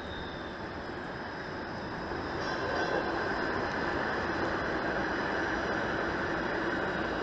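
Toronto streetcar running along its street rails, a steady rumble that grows louder from about two seconds in as it comes closer.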